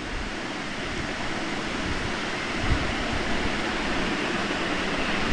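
Onions and raw chicken pieces sizzling in hot ghee in a frying pan, a steady hiss that grows slightly louder, with one soft thump about halfway through.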